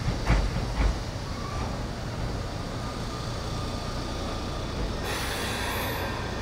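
JR Central 313 series electric train running on the track: a steady rolling rumble, with two heavy thumps about half a second apart near the start. A brighter hiss joins about five seconds in.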